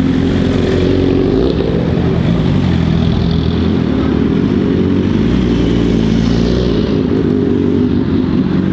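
A vehicle engine running loudly and fairly steadily, with a slight rise and fall in its pitch.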